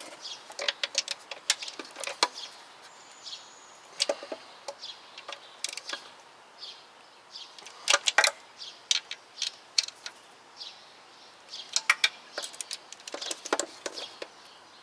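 Hand ratchet clicking in short irregular runs as a row of engine cover bolts is tightened down, snugged gradually onto a rubber gasket.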